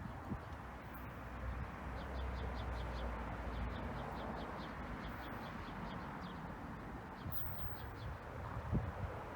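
A small songbird chirping in quick high notes, several a second in short runs, over a steady low background rumble, with a soft thump near the end.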